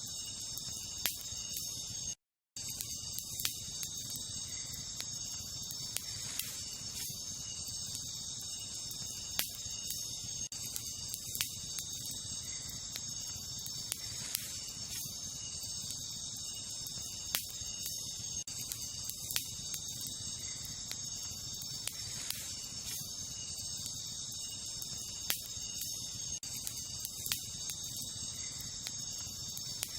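Wood campfire crackling, with sharp pops every second or two, over a steady high-pitched chorus of night insects. The audio drops out completely for a moment about two seconds in.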